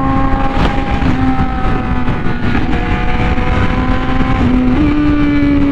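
Honda Fireblade RR-R SP's inline-four engine through a titanium SC Project exhaust, running hard at sustained high speed over heavy wind and road rush. The engine note holds high and steady, with small shifts in pitch and a slight rise near the end.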